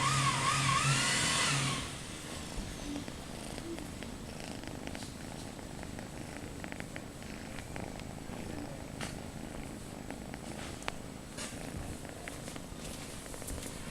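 British shorthair cat purring steadily. At the start a loud whirring noise with a low hum and a wavering whine cuts off sharply about two seconds in.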